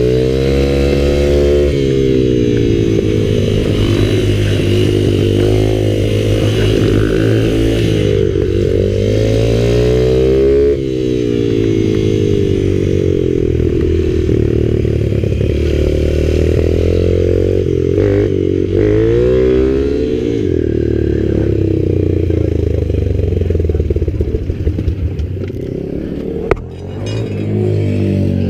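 Mini bike (pit bike) engine running hard around a track, its pitch climbing and falling again and again as the throttle opens and shuts. Near the end it drops briefly as the throttle is cut, then picks up again.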